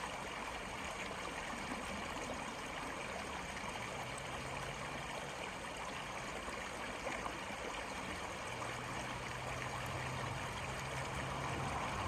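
Steady rushing and gurgling of a flowing stream. A faint low hum joins about four seconds in and again for the last few seconds.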